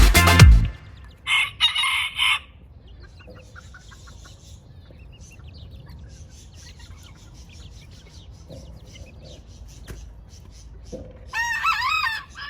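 Short-legged bantam chickens: two short loud calls a little over a second in, then soft scattered clucking, and a rooster crowing near the end.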